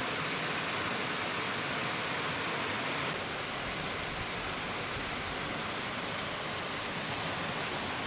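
Mountain stream water rushing over rocks: a steady, even hiss.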